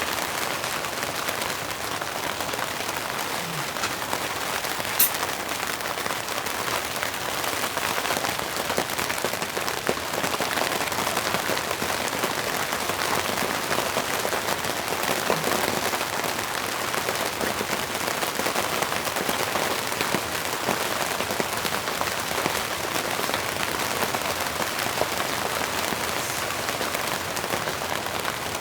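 Steady rain falling, with one sharp click about five seconds in.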